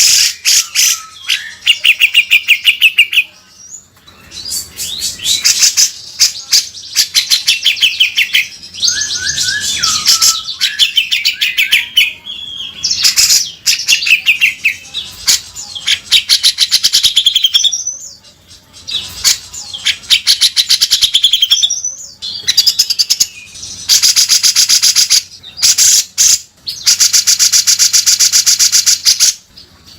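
Grey-cheeked bulbul (cucak jenggot) singing continuously, with rapid chattering phrases and coarse, rasping buzzy trills (harsh 'beset' calls), in bursts of a few seconds separated by short pauses.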